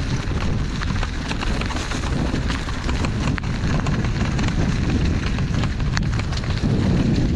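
A steady low rumble of wind buffeting the microphone, with many small crackling clicks scattered throughout, heard while riding an electric unicycle along a rough, wet trail.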